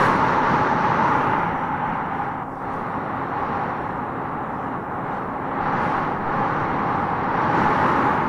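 Howling wind gusting through tropical trees, a steady rushing noise that eases about two and a half seconds in and swells again near the end.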